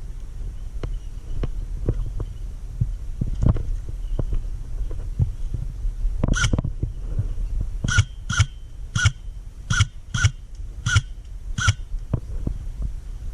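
Soft footsteps and gear thumps over a low rumble. From about six seconds in comes an irregular string of about ten single sharp shots, each with a short metallic ping: an airsoft gun firing in semi-automatic.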